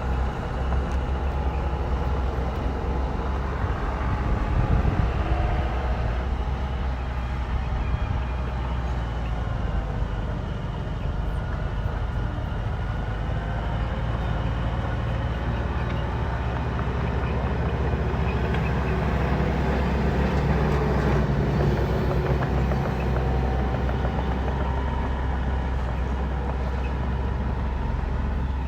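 Bulldozer's diesel engine running under load, a steady low rumble whose pitch rises and falls as the engine speed changes.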